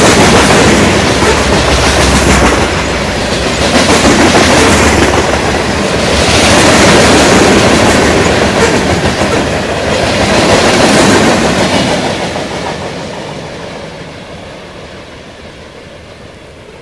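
Freight train of covered hopper cars rolling past close by, steel wheels running on the rails, loud and swelling and dipping as the cars go by. About twelve seconds in it starts to fade steadily as the end of the train passes and moves away.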